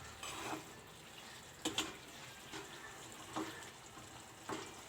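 Chicken simmering in its own released juices in an open kadhai, with a steady bubbling hiss. A metal spoon knocks against the pan three times as the chicken is stirred.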